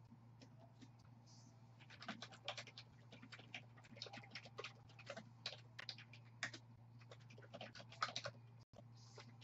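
Faint, rapid, irregular clicks and scratchy rustles starting about two seconds in and stopping shortly before the end, over a steady low electrical hum.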